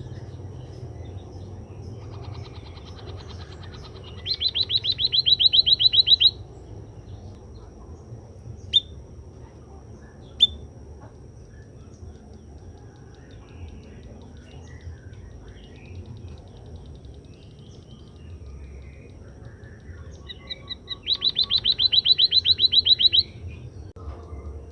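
White-headed munia (emprit kaji) singing: twice, a fast run of clipped high notes, about eight a second for some two seconds, each swelling from a faint start. Two single sharp chips come in between.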